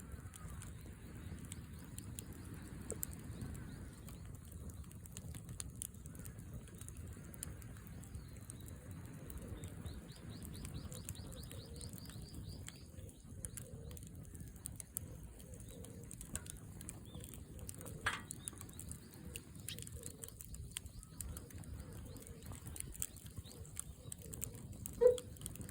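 Wood fire crackling in a fire stand, with small scattered pops and clicks over a low, steady rush. Birds call in the background, with a quick run of rising chirps about ten seconds in.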